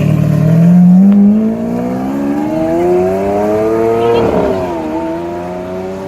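Lamborghini Aventador Roadster's V12 accelerating hard, its note climbing in pitch for about four seconds, then breaking with a rough burst and dropping to a lower, steadier note.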